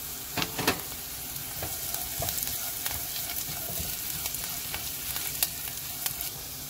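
Sliced onions, garlic and green chillies sizzling in hot ghee in a non-stick pan, with a spatula stirring them and scraping the pan in scattered clicks over a steady hiss.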